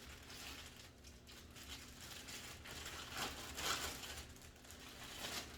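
Packaging crinkling and rustling in irregular bursts as a vacuum cleaner attachment is unwrapped and handled, loudest a little past the middle.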